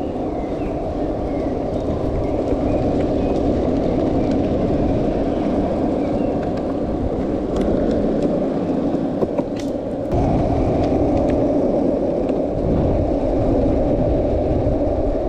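Longboard wheels rolling over pavement: a steady rumble that steps up suddenly about ten seconds in.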